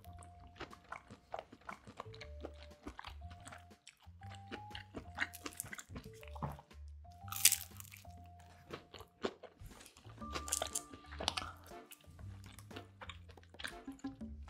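Close-miked chewing and crunching of food, first a roasted shrimp with its shell tail and then crisp pizza crust, with one sharp, loud crunch about seven seconds in. Quiet background music plays underneath.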